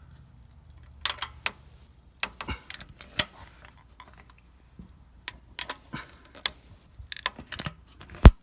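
Irregular light metallic clicks and clinks as the loosened oil filter and the ratchet strap around it are worked loose, with one sharp, louder click near the end.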